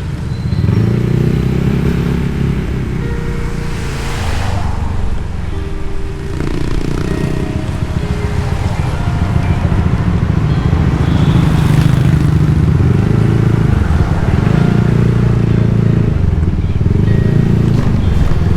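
Motorbike engine running under way, its pitch rising and falling with the throttle, along with wind and road noise. The noise swells twice, about a third of the way in and again near the middle.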